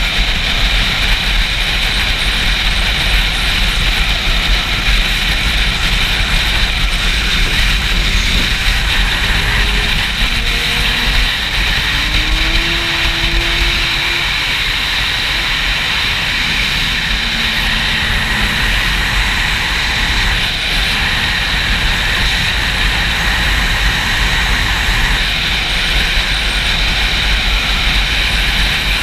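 Wind buffeting a GoPro's microphone on a moving Yamaha YZF-R6 motorcycle: a loud, steady rushing rumble. A faint engine note rises and falls in pitch in the middle.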